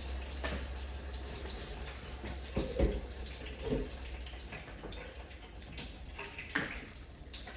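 Water running from a tap, with a few short knocks.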